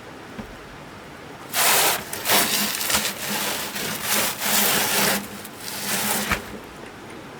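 A series of about six rough scraping strokes, each a little under a second long, in an even back-and-forth rhythm that stops after about five seconds.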